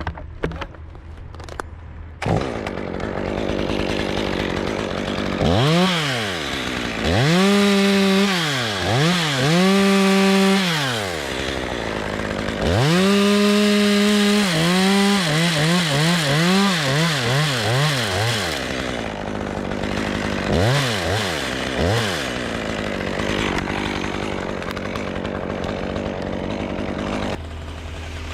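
Stihl two-stroke chainsaw idling, then revved to full speed over and over as it cuts through a limb, the pitch sagging and wavering under load. A couple of short blips come near the end before it settles back to a steady idle.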